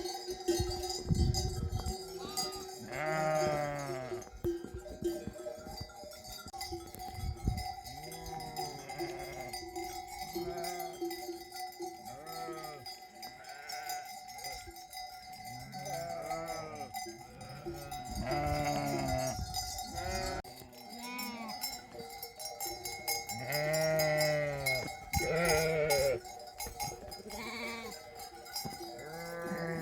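A flock of sheep and lambs bleating again and again, calls overlapping, over the steady ringing of sheep bells. A few low thuds in the first couple of seconds.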